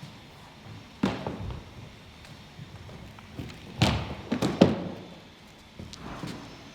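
A series of separate knocks and thuds: one sharp knock about a second in, a quick cluster of three louder ones in the middle, and a softer one near the end.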